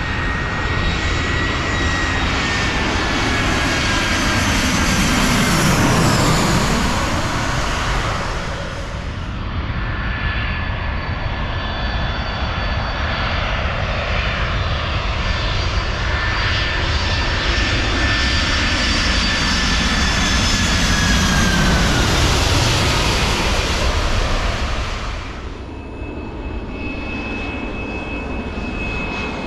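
Airliner jet engines roaring as aircraft pass low overhead on approach to land, with a high whine that falls in pitch as each one goes by. Two passes, the loudest about six seconds in and about twenty-two seconds in.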